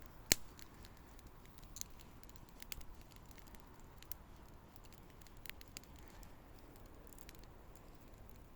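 Wood fire crackling with scattered sharp pops, the loudest a single pop about a third of a second in, over a faint steady hiss.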